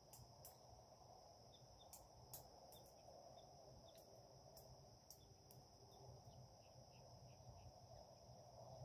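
Near silence: faint outdoor ambience with a steady high-pitched insect drone, a few faint short chirps and scattered soft clicks.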